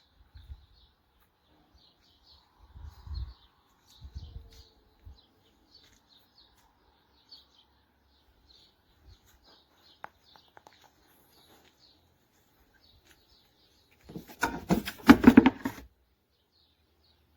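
Small birds chirping over and over, with a couple of low thuds a few seconds in and a loud burst of noise lasting about two seconds near the end.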